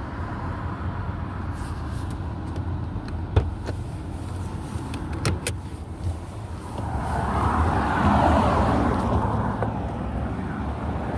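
A 2018 Nissan Rogue's 2.5-litre four-cylinder engine idling steadily, with a few light clicks. A broader rushing noise swells up about seven seconds in and fades again.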